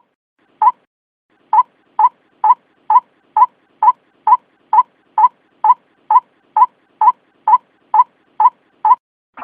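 White-breasted waterhen (ruak-ruak) lure call: one short note repeated steadily about twice a second, after a short pause about a second in.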